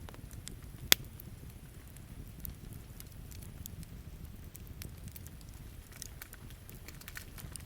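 Wood campfire crackling, with scattered small pops and one loud sharp pop about a second in, over a low steady rumble.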